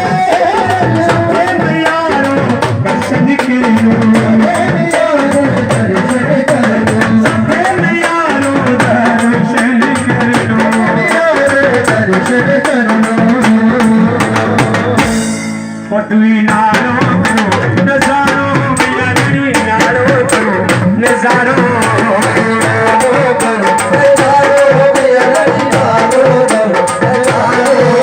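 Live Hindu devotional song (bhajan) with singing over hand drums, amplified through a sound system. The sound drops out briefly for about a second roughly halfway through.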